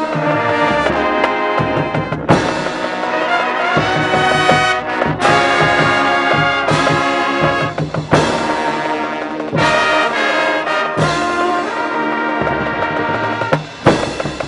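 High school marching band brass (trumpets and trombones) playing loud, held chords that change every second or two.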